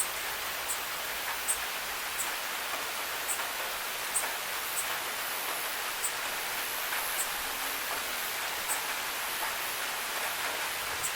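Steady rain hiss, with single drops ticking sharply and irregularly about once a second.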